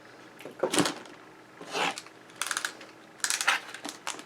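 A cardboard shipping parcel being opened and handled: several short, irregular scrapes, rustles and knocks of cardboard.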